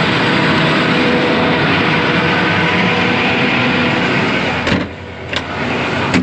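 Combine harvester running steadily while cutting and threshing wheat, a dense machine noise with a steady engine hum. About three-quarters of the way in it drops noticeably quieter, with a few short knocks.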